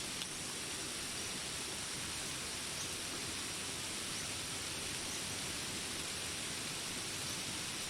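Steady rain falling, an even hiss with no let-up, with a single sharp drip tick just after the start.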